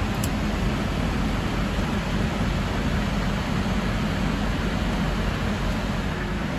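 Steady rushing noise inside an Airbus A321neo flight deck in flight: airflow and air-conditioning noise with a low hum, and one short click just after the start.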